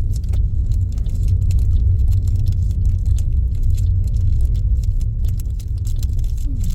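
Steady low rumble of a car's engine and road noise, heard inside the moving car's cabin, with faint scattered clicks.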